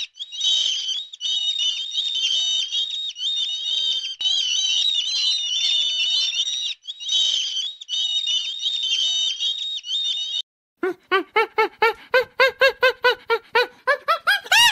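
A flock of seabirds (terns and gulls) calling together in a dense, continuous chatter of high-pitched calls. About eleven seconds in, this cuts to a different animal's rapid series of calls, about four a second, with louder rising calls near the end.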